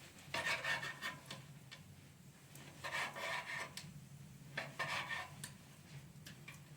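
Rough scraping or rubbing in three bursts, each about a second or shorter, over a faint steady low hum.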